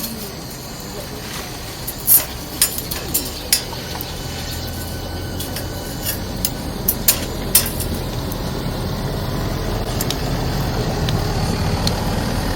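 Wood fire crackling in a small round wood stove, with sharp irregular pops and snaps. A low rumble builds from about eight seconds in.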